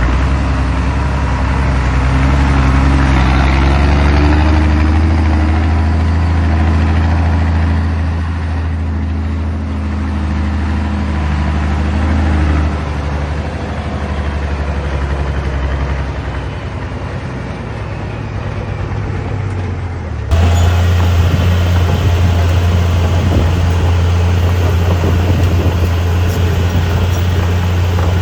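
Heavy diesel engine of a dump truck running, with a low note whose pitch shifts slightly during the first part. About two-thirds of the way through the sound changes abruptly to a steadier, louder engine note.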